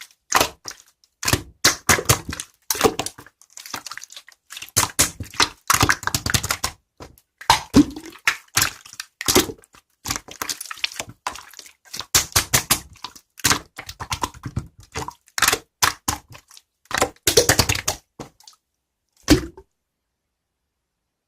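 Slime being squeezed, poked and folded by hand, giving bursts of wet crackling and popping clicks with short pauses between them; it stops about a second and a half before the end.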